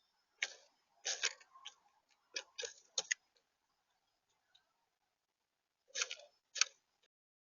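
Sharp taps and clicks at a bird feeder, in small clusters, with a gap of nearly three seconds before the last two, picked up by a smart camera's small built-in microphone.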